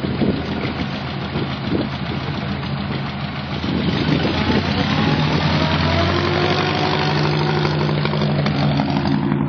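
Car engine running steadily, getting louder about four seconds in.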